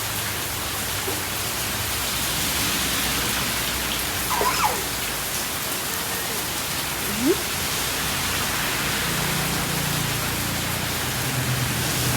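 Heavy rain falling in a steady downpour. There are two brief, faint sliding sounds in the middle of the downpour.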